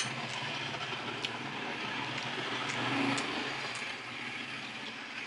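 Close-miked chewing and wet mouth sounds of someone eating, with a few small clicks. A steady low hum runs under it.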